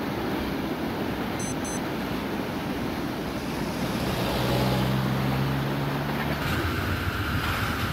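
Steady rumbling noise of a freight train rolling by at a distance. A car drives past close by from about four to six seconds in, adding a steady engine hum for a couple of seconds.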